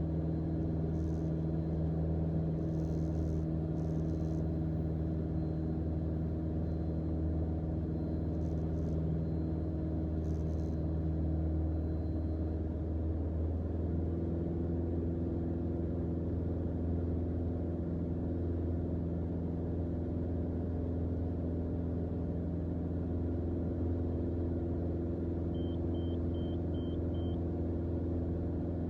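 Single-engine Mooney M20J's four-cylinder Lycoming engine and propeller droning steadily in climb, heard inside the cockpit; the engine note shifts slightly about halfway through. A quick run of five faint beeps comes near the end.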